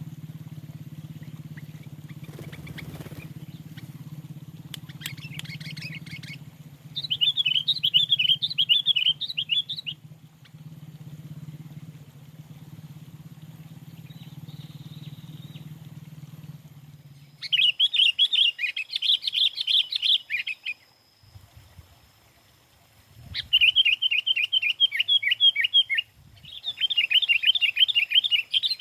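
Sooty-headed bulbul (kutilang) song: four bouts of fast, chattering trilled phrases. A steady low hum runs under the first half and stops about halfway through.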